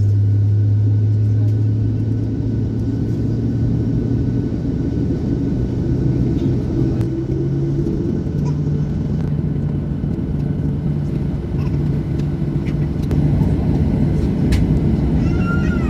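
Cabin noise of a Boeing 737-800 on the ground before takeoff: a steady low rumble from its CFM56 turbofan engines and airframe. The engine drone steps up in pitch about halfway through.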